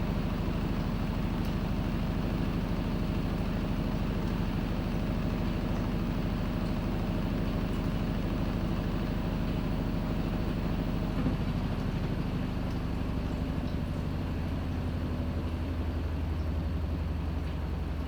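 Panasonic NA-FA100H9 top-loading washing machine running mid-cycle, a steady motor hum with water and drum noise; about twelve seconds in the hum shifts to a lower, stronger tone as the machine changes its drum motion.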